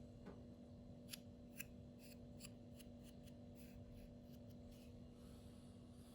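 Faint, short scraping strokes of a Spyderco Tenacious 8Cr13MoV steel blade on a silicon carbide whetstone, a quick irregular string of them starting about a second in, over a steady low hum.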